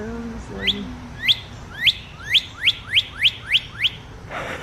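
Northern cardinal song: a run of about nine clear down-slurred whistles, the first three spaced out and the rest coming quicker.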